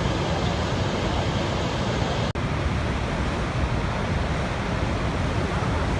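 Waterfall: a steady, full rush of falling white water, with a split-second dropout about two seconds in.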